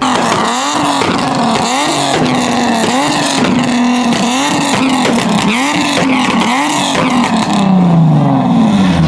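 Car engine revved hard over and over, the pitch climbing and dropping about once a second in quick blips, then falling away as the revs come down near the end.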